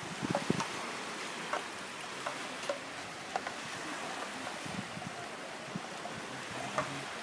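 Steady wash of sea surf, with scattered short clicks and knocks and a few brief low rumbles near the start and around the middle.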